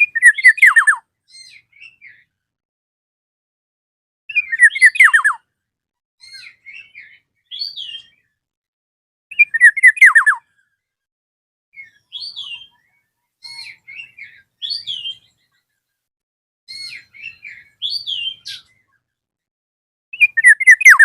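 Black-naped oriole (kepodang emas) calling: four loud phrases of about a second each, made of quick falling notes, with softer short whistles and chirps between them.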